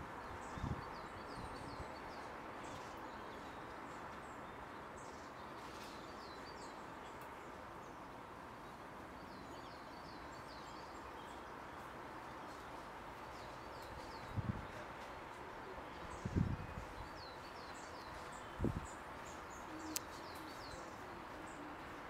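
Small birds chirping in short, high runs over a steady background hiss. A few brief low thumps break in, one near the start and three in the second half.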